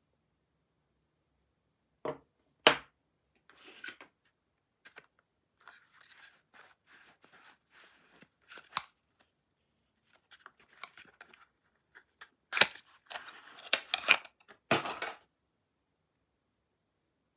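Soap being unwrapped by hand: two sharp clicks about two seconds in, then on-and-off rustling and tearing of the wrapping, louder and busier near the end.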